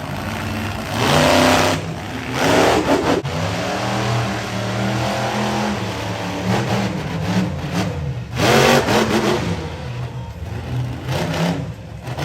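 Monster truck engine revving hard in several short bursts over a rumbling idle. The loudest blips come about a second in, again a second later, and once more past the middle, with smaller blips near the end.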